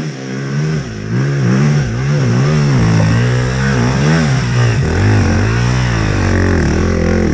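Off-road dirt bike engine revving up and down, the throttle blipped about twice a second at first and then held open longer.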